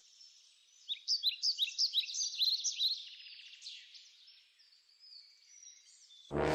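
Birds chirping: a quick run of short, high, sliding chirps for about two seconds, then scattered calls with a longer held note. A loud burst of sound cuts in just before the end.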